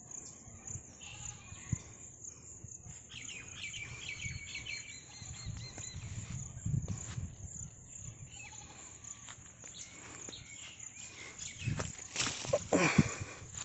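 Birds chirping in a rural garden, a quick run of repeated high calls a few seconds in, over low outdoor background and handling rustle; a louder burst of noise comes near the end.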